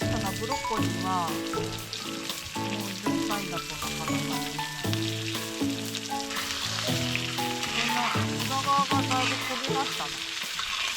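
Food sizzling as it fries in a pan, the hiss growing louder about halfway through, over background music of held notes.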